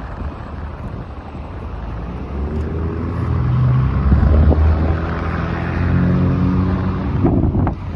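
Heavy diesel engine of a fire truck pulling away, its engine note growing louder over the first few seconds and then holding steady.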